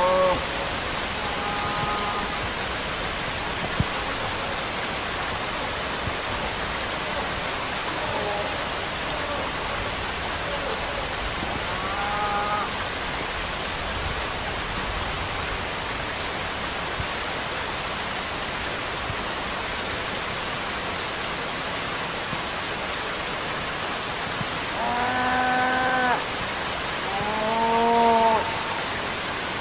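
Steady rainfall, an even hiss of rain. A few short pitched calls that rise and fall sound over it now and then, the loudest two near the end, each lasting about a second.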